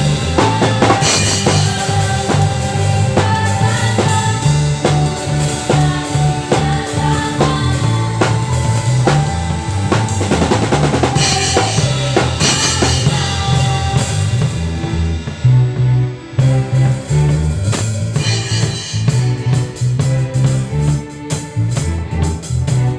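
Live worship band playing an instrumental passage, led by a drum kit with snare and bass drum over steady bass notes, with a short break about two-thirds of the way through.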